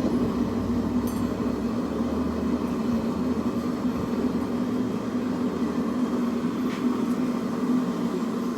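Steady drone of a running forge, a constant low hum with a rushing noise over it.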